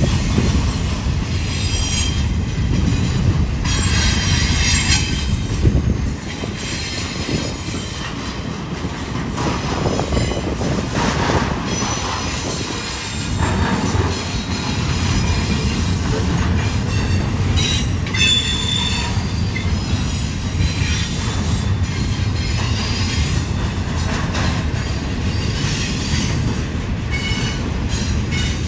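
Double-stack intermodal well cars of a freight train rolling past: a steady low rumble of steel wheels on the rails, with high-pitched wheel squeals that come and go, clearest a few seconds in and again past the middle.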